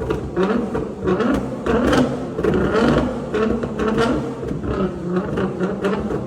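Twin-turbocharged Nissan GT-R engine revving, with a rapid run of sharp exhaust pops and crackles.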